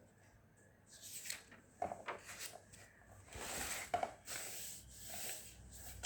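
Faint rustling swishes with a couple of light clicks.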